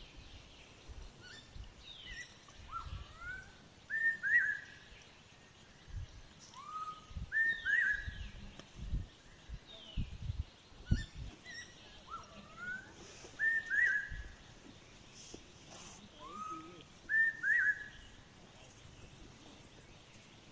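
A songbird repeats a short whistled phrase about every three seconds: a quick pair of high notes and an upward-sweeping note. Intermittent low rumble sits underneath.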